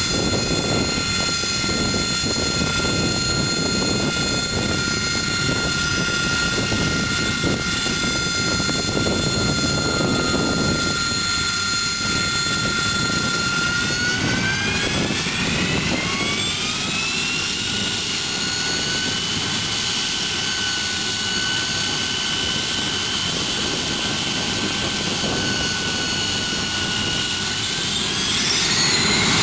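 Aircraft engine running with a steady high whine over a rushing noise; about halfway through the whine rises in pitch and then holds at the higher pitch as the engine spools up.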